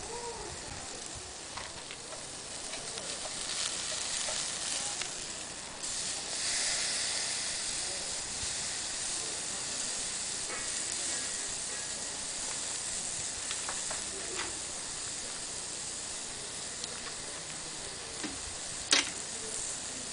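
Steak sizzling over charcoal, a steady hiss that swells louder about six seconds in, with one sharp crack near the end.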